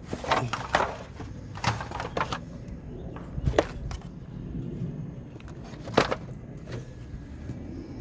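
Scattered knocks and scrapes of parts and tools being handled in an engine bay, with sharp clacks about two seconds, three and a half seconds and six seconds in.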